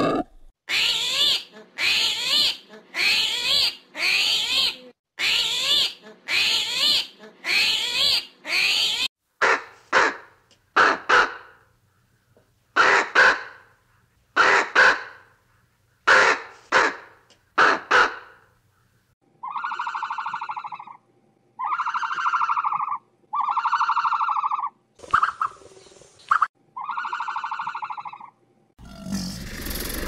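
A string of animal calls from several different animals, edited one after another. First comes a quick run of about a dozen repeated calls, then short sharp calls in pairs, then about five drawn-out calls, each about a second long, at an even pitch.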